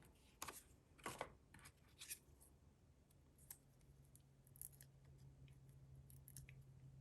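Faint small clicks and scrapes of paper craft handling: adhesive foam dimensionals being peeled and pressed onto a cardstock strip. A faint steady low hum comes in after about a second and a half.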